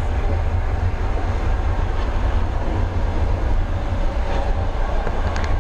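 Sleeper train in motion: the steady low rumble and running noise of the carriage, heard from inside a sleeping compartment.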